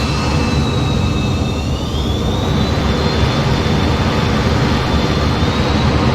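F-15 jet engines running: a loud, steady rush with high turbine whines, one of which rises in pitch about two seconds in.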